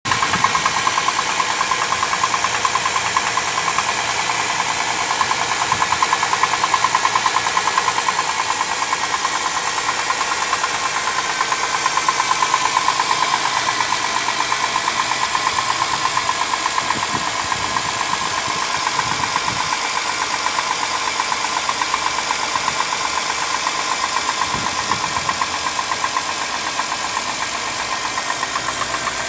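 2005 Dodge Caravan's 3.3-litre V6 idling with a steady, rapid knock from inside the engine.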